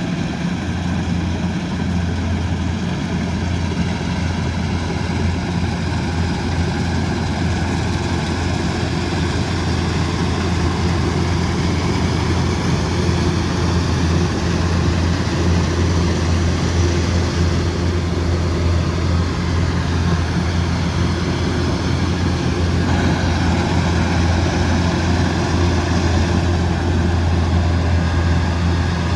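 Kubota DC108X combine harvester running steadily under load, a constant low engine hum with mechanical whirring over it; the machinery note shifts slightly about three-quarters of the way through.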